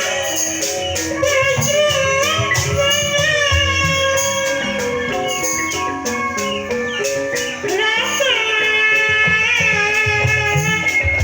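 Sundanese jaipongan music played live: a high melody with long held, sliding notes over drumming and quick, regular metallic clicks.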